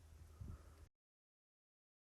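Near silence: a faint low rumble that cuts off abruptly about a second in, then dead silence.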